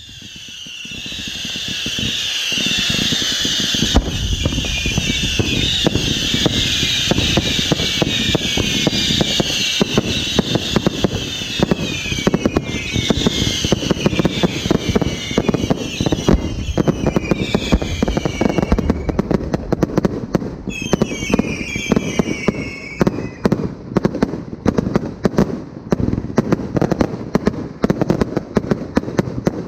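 Fireworks display: dense crackling and popping with many whistles falling in pitch, swelling up over the first couple of seconds. Near the end the whistles die away and crackling bursts go on.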